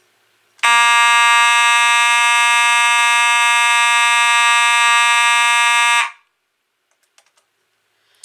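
Simplex 2901-9838 fire alarm horn sounding one continuous, steady, buzzy tone for about five seconds. It starts about half a second in and cuts off abruptly. This is a vibrating-diaphragm horn, and the tone is loud and ear-piercing.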